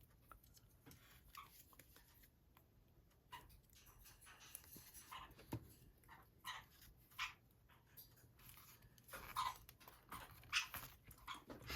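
Near silence with faint, scattered handling sounds: short rustles and light taps of paper labels and journal pages being handled, a little busier near the end.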